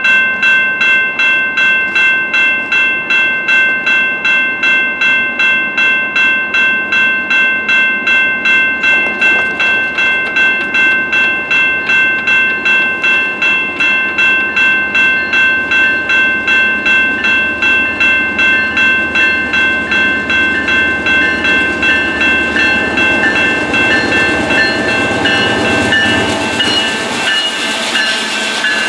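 Railroad crossing bell ringing steadily, about two and a half strikes a second. Over the last few seconds the rumble of a slow-moving diesel freight train grows as it nears the crossing and starts to cover the bell.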